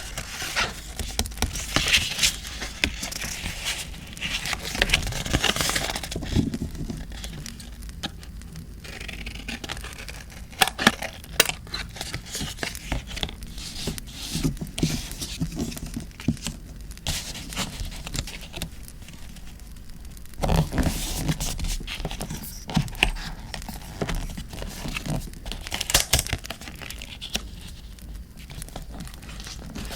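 Paper handled close to the microphone: rustling, crinkling and tearing, with scattered sharp taps, coming in bursts with short pauses between.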